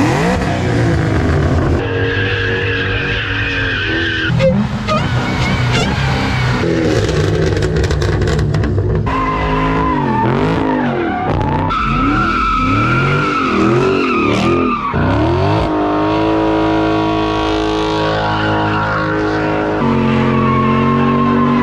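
Performance car engines revving hard, with tires squealing and skidding in burnouts. The sound cuts abruptly between several short passes.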